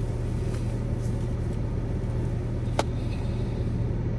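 Steady low hum and rumble of a car heard from inside the cabin, with one sharp click nearly three seconds in. The car has a shaking problem with its check engine light on.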